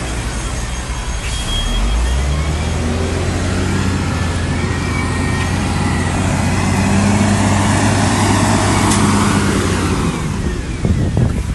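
Heavy diesel engine of earthmoving machinery running steadily, its pitch stepping up a little about two seconds in as the machine works.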